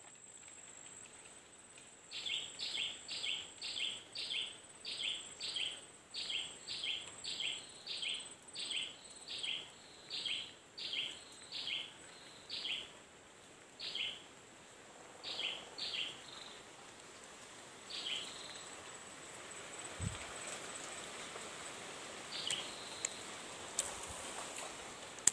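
A bird calling over and over, short two-part chirps about twice a second, slowing and thinning out after about ten seconds, with only a few more calls near the end. A faint steady high whine runs underneath, and there is a single dull thump about twenty seconds in.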